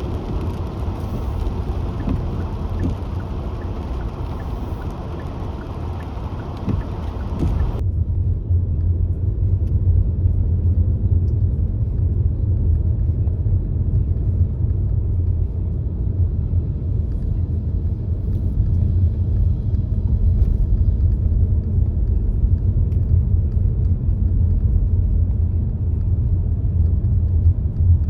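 Car road noise while driving: a hiss with scattered small ticks that cuts off abruptly about eight seconds in, leaving a steady low rumble.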